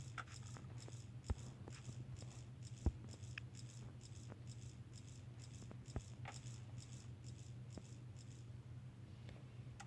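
Faint scattered clicks and light taps of small objects being handled, over a steady low hum.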